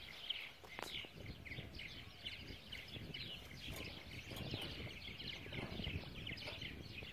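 Many small birds chirping: a steady chorus of short, overlapping high calls.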